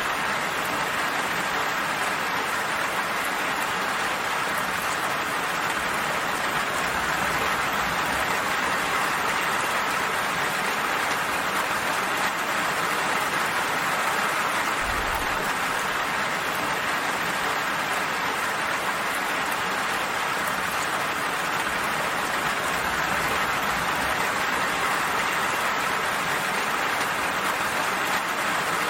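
Steady, even rain falling, a continuous hiss with no distinct drops or thunder.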